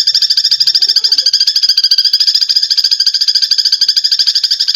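Sparrow chattering in a fast, unbroken run of notes: the agitated chatter of a fighting sparrow.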